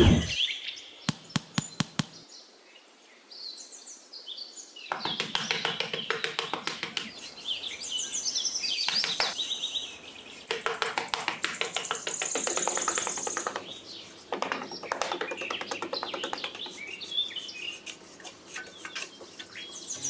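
Birds chirping and twittering in repeated short phrases, with some trills. The chirping starts about five seconds in after a quieter stretch, and there is a brief falling whoosh at the very beginning.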